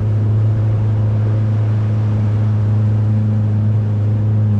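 Boat engine running steadily with a loud, low, even hum that holds one pitch throughout.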